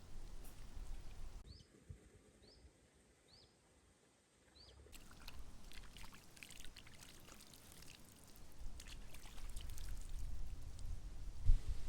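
A small bird gives four short falling chirps about a second apart in a quiet spell. After that comes faint irregular crackling and rustling, with a low rumble building near the end.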